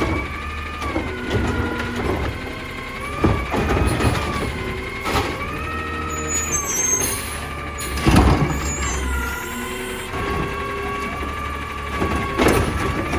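Heil Durapack Rapid Rail automated side-loader garbage truck at work: a steady whine that rises and falls in pitch, broken by several knocks and bangs. There is a short hiss of air a little past halfway.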